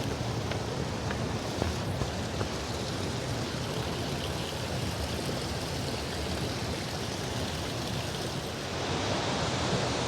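Linville River water rushing steadily, a continuous noise of flowing water that swells slightly near the end.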